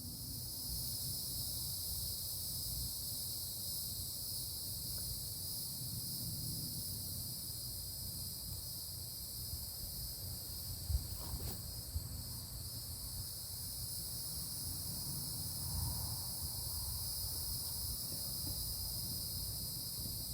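Steady, high-pitched chorus of insects, with a low rumble underneath and a single faint knock about eleven seconds in.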